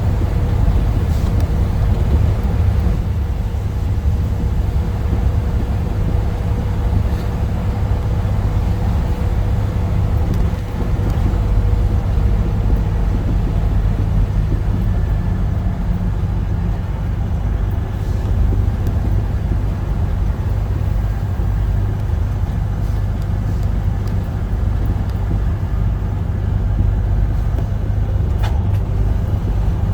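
Scania truck engine running steadily under way in top direct gear, a deep even drone with road noise and no revving.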